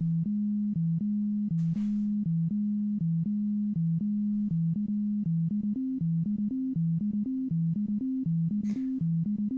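Waldorf Iridium synthesizer playing a short step-sequenced loop on its plain init patch: clean, simple low notes in quick succession, stepping between two or three nearby pitches. From about six seconds in the higher note comes in more often and the pattern quickens.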